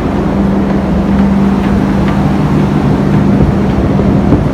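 Steady, loud hum of a docked cargo ship's machinery, with a constant low tone under a wash of noise.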